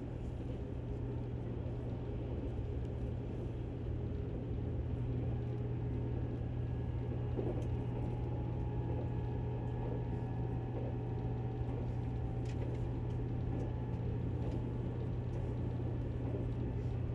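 JR Kyushu 783 series electric train running along the line: a steady low hum with faint whining tones above it and an occasional light click.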